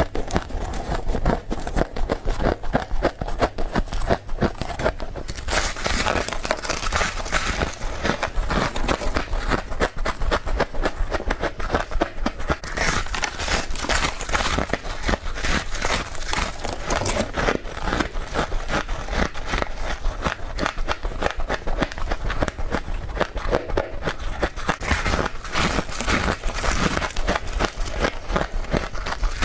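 Fast, continuous crunching of fluffy freezer frost being bitten and chewed, a dense crackle of close-packed crunches throughout.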